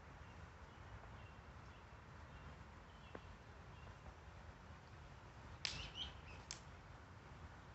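Quiet outdoor ambience with faint low background noise, broken by a short burst of sharp, high bird chirps a little over five seconds in.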